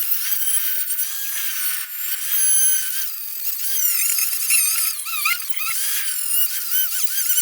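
Angle grinder with a wire wheel, a high whine whose pitch wavers and dips as the wheel is pressed against and eased off rusty steel, stripping it to bare metal.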